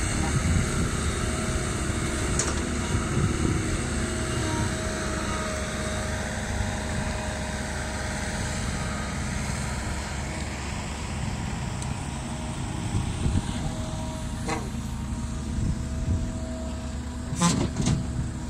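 Heavy diesel machinery engine running steadily under work, with a few short sharp knocks near the end.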